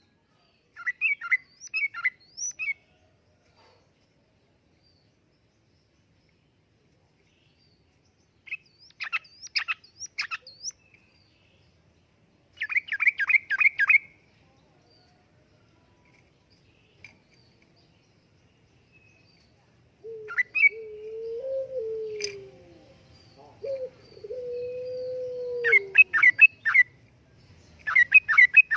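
Yellow-vented bulbul (trucukan) singing short, quick bubbly phrases in bursts a few seconds apart. For several seconds in the second half, a lower, wavering tone sounds beneath the song, and there is a single sharp click.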